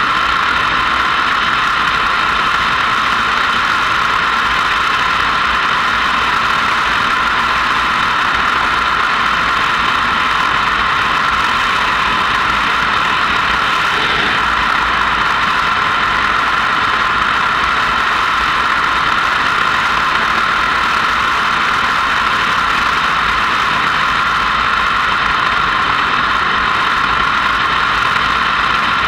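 Motorcycle riding at a steady pace: a constant mix of engine and wind noise on the onboard microphone, with no change in speed.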